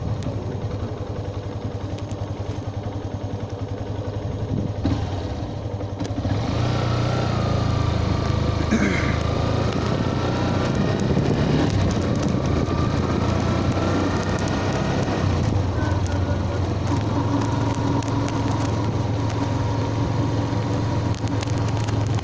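Yamaha FZ-S motorcycle's single-cylinder engine running steadily on the move, getting louder about six seconds in along with more wind and road noise.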